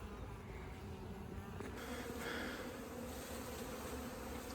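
Steady buzzing of a large mass of honey bees around their opened-up nest in a house wall, a feral colony that is disturbed and aggressive.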